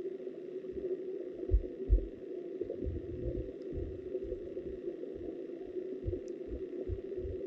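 Flowing river water heard underwater: a steady low rushing, with irregular dull low thumps, two louder ones about one and a half and two seconds in.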